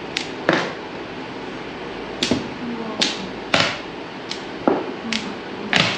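Mahjong tiles clacking on the table: about nine sharp, separate clacks at uneven intervals.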